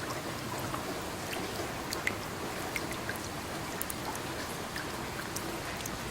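Steady rain falling, with many separate drops ticking close by against a soft wash of rainfall.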